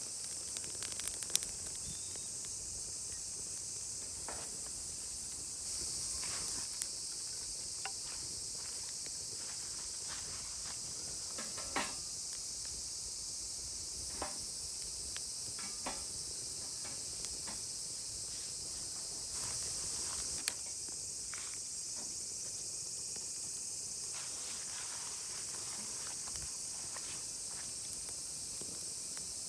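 Steady high-pitched chorus of insects, with scattered light clicks and taps over it.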